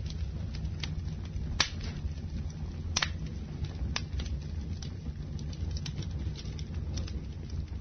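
Campfire burning: burning wood crackles with sharp pops roughly once a second over a steady low rumble, the loudest pops about a second and a half and three seconds in.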